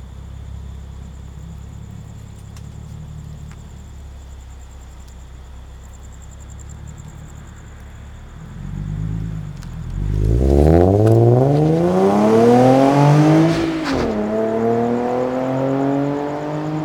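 Nissan VQ-series V6 breathing through an Invidia aftermarket exhaust with Kinetix high-flow catalytic converters. It idles with a low rumble, then about halfway through accelerates hard, its note climbing for several seconds. The note breaks off sharply and settles into a steady lower drone that eases off near the end.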